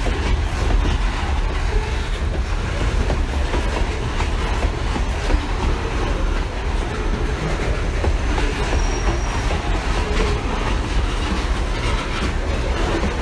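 CSX freight train rolling past, its cars making a steady loud rumble on the rails, with faint wheel squeals now and then.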